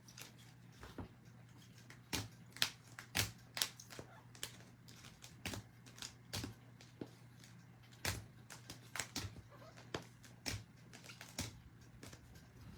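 Trading cards and rigid plastic top loaders handled on a table, giving irregular sharp clicks and taps over a faint steady low hum.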